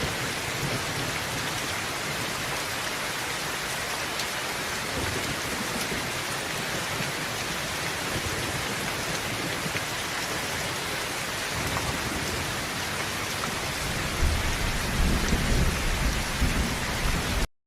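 Heavy rain drumming steadily on a tin roof, with thunder rumbling low in the last few seconds; the sound cuts off suddenly just before the end.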